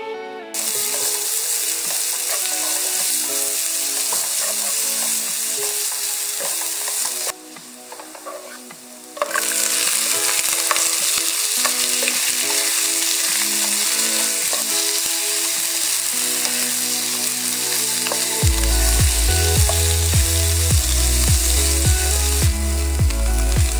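Chicken pieces and shredded ginger sizzling in hot oil in a wok, stirred with a spatula; the sizzle drops away for a couple of seconds about a third of the way in. Background music runs underneath, with a heavy bass beat coming in near the end.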